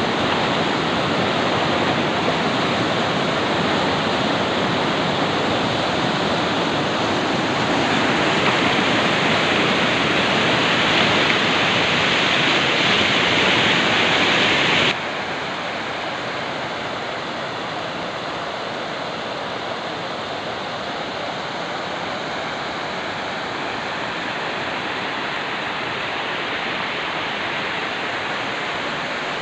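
Kameng River water rushing in a steady, even hiss, which becomes suddenly softer about halfway through and then continues steadily.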